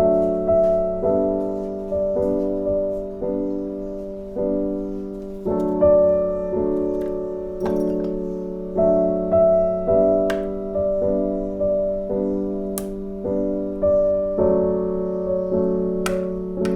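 Background music: a slow piano passage of repeated chords, each struck and left to fade.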